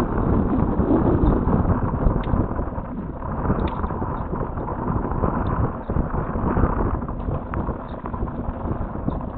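Wind buffeting an outdoor nest-camera microphone, a rough, uneven rumble that eases slightly after the first couple of seconds, with a few faint ticks.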